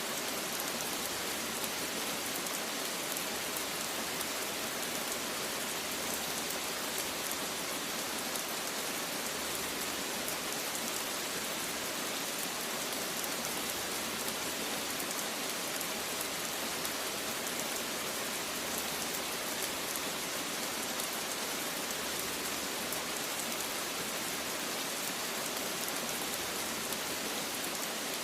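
Steady rain falling on a surface, an even hiss of drops with no change in strength.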